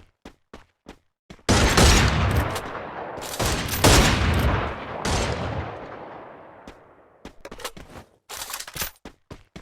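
Food dropped into hot oil in a pan: a sudden loud sizzle about a second and a half in that crackles in surges and dies away over several seconds. Regular light clicks come before it and return near the end.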